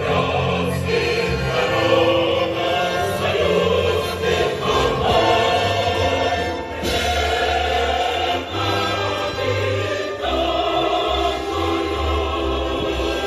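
Choral music: a choir singing sustained chords over instrumental accompaniment with a deep bass line that changes every second or two.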